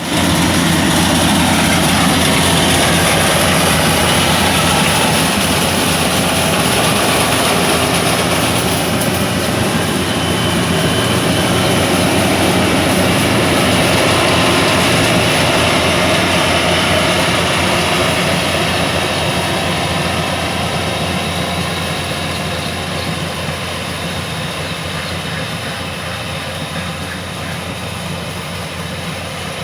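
Rice combine harvester running at work: a loud, steady engine drone with a dense mechanical noise over it, slowly growing fainter over the last ten seconds.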